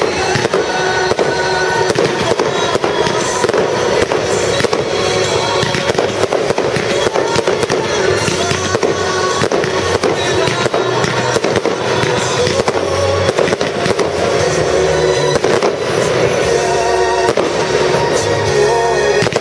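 Aerial fireworks shells bursting in dense, rapid succession: many sharp bangs close together, over music playing throughout.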